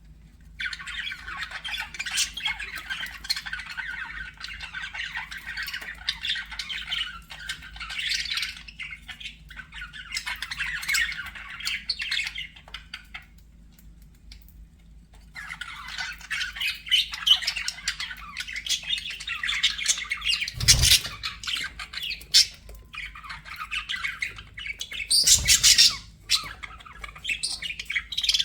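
Budgerigars chattering and warbling in a continuous run of chirps and squawks. The chatter pauses for about two seconds midway. Two short knocks sound later on.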